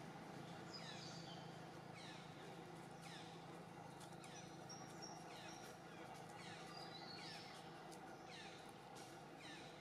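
Faint bird calls: short notes sliding down in pitch, about one a second, over steady low background noise.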